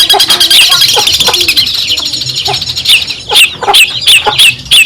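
Long-tailed shrike (cendet) singing loudly. First comes a fast, scratchy chatter; then, about three seconds in, a run of separate sharp falling notes, several a second.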